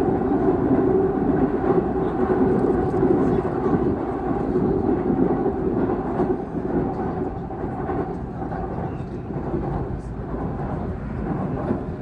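Seoul Subway Line 2 train running over the Dangsan railway bridge, heard from inside the car: a steady rumble of wheels on rails, a little quieter in the second half.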